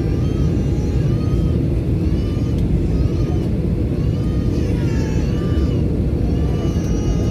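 Steady low rumble of a Boeing 737 airliner's engines and airflow, with faint voices over it.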